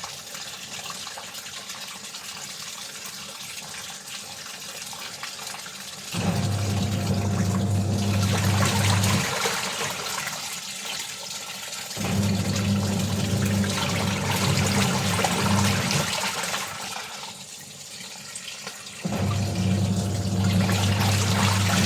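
Water gushing three times, each burst a few seconds long and starting suddenly with a low electric motor hum. Between the bursts a steady high chirring of insects carries on.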